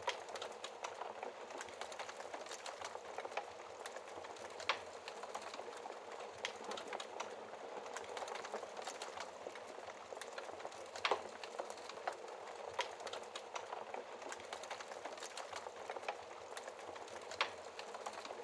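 Wood fire in a fireplace burning with steady fine crackling and occasional louder pops, three standing out about 5, 11 and 17 seconds in.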